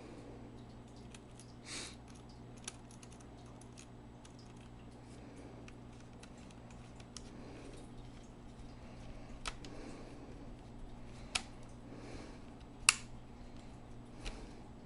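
Small scattered clicks and ticks of a screwdriver and a tiny screw being worked into a laptop's case, fastening the Ethernet port, with one sharper click near the end. A faint steady hum lies underneath.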